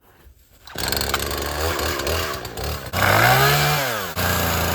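A small engine revving up and down in loud bursts, with its pitch rising and falling, in short pieces that start and stop abruptly.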